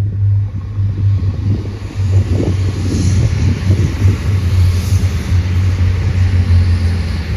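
Irish Rail diesel multiple unit passing close by, its engines giving a steady low hum under the noise of the train running along the track.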